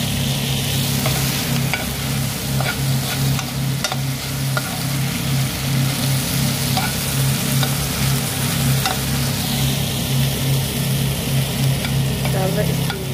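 Chicken liver frying and sizzling in a pan, with scattered sharp pops over the hiss and a steady low hum underneath.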